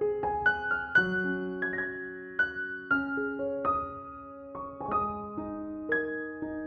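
Soft solo piano background music, single notes and chords struck a few times a second and left to ring.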